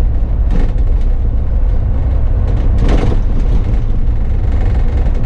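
Bus in motion: steady engine and road rumble, with a brief rush of noise about three seconds in.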